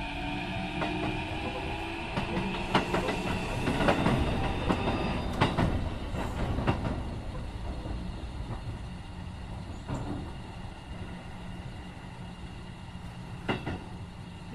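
Keikyu 1500 series electric train with Mitsubishi IGBT-VVVF inverter, heard from inside the car as it slows: the inverter's falling tones fade out, and wheels knock sharply over rail joints and points between about 2 and 7 seconds in. The running rumble then dies down.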